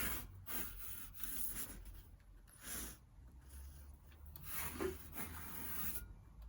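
Metal pizza peel scraping across the stone floor of a wood-fired oven as the pizza is turned, in a few short rasping strokes.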